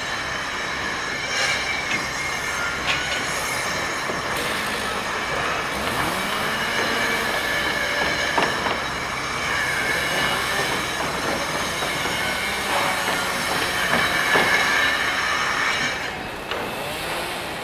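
Construction machinery noise: a steady, dense mechanical din with high, steady whining tones and a few short knocks.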